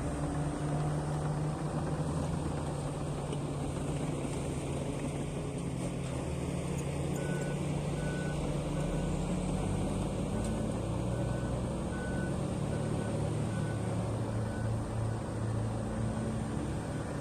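Heavy diesel mining machine's engine running steadily, with a reversing alarm that starts beeping about halfway through, at about one and a half beeps a second: the machine is backing up.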